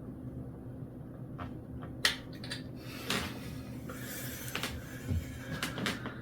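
Scattered metallic clicks and knocks of a wrench working a bike wheel's axle nut, with one sharp clink about two seconds in.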